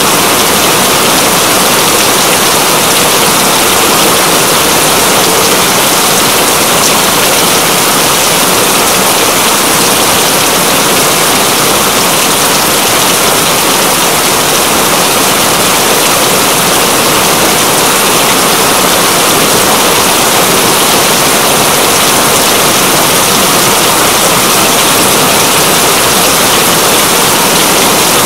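Steady, heavy rain falling in an even, unbroken hiss.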